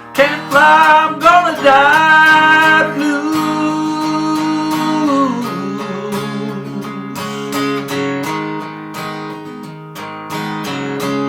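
Acoustic guitar strumming under a singer holding a long wavering note, which slides down and ends about five seconds in; the guitar carries on alone after that.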